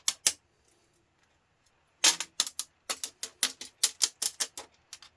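Small metal scrap parts (screws, nuts, brass and stainless bits) clicking and clinking as they are dropped and sorted into piles: two clicks at the start, then a quick run of clicks, about four a second, for nearly three seconds.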